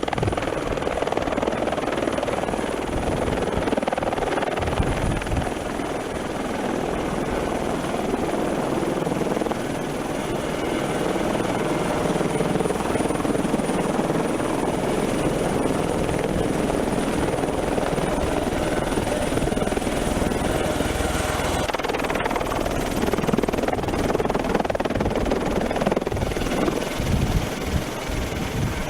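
Eurocopter helicopter running: turbine engine and rotor make a steady, dense noise with a thin high whine over it. About two-thirds of the way through, the high whine drops in pitch and stops while the main noise carries on.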